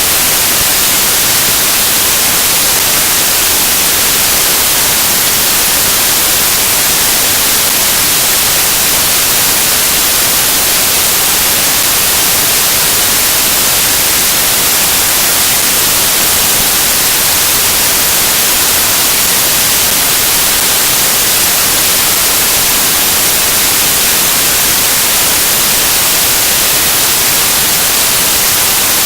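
Loud, steady static hiss, strongest in the high end, with no speech or other sound in it: the sound track carries only electronic noise, a recording or upload fault.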